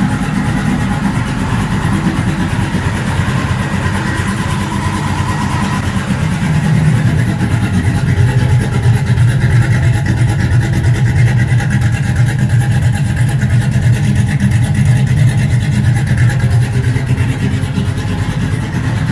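Cammed V8 truck engine running rough just after a cold start, getting louder about six seconds in. The owner says the tune is off and it runs badly.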